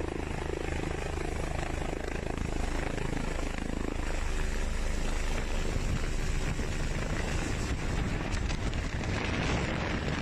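Rescue helicopter's rotor and turbine engine running steadily, with a fast low chop. Wind noise on the microphone grows near the end.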